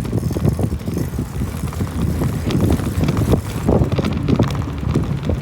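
Riding a bicycle with a phone camera: a loud, uneven rumble of wind and road noise on the microphone, broken by irregular small knocks and rattles.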